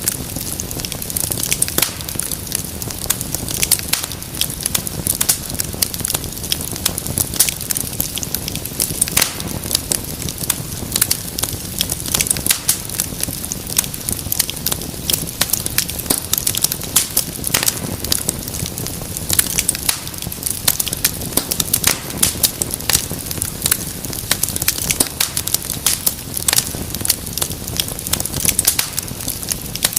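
Wood fire burning in a fireplace, with continuous dense crackling and popping over a low steady rumble of the flames.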